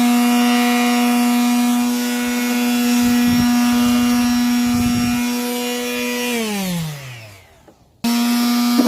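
Woodworking power tool motor running at a steady pitch while cutting wood, then switched off and winding down, its pitch falling as it coasts to a stop; just before the end the same steady hum starts again abruptly.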